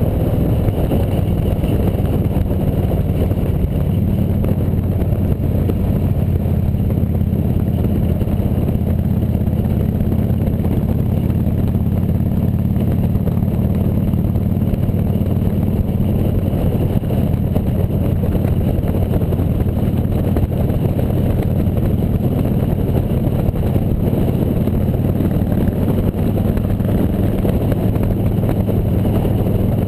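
Motorcycle engine running at a steady speed while riding, its pitch holding level with no revving or gear changes, under a constant rushing noise.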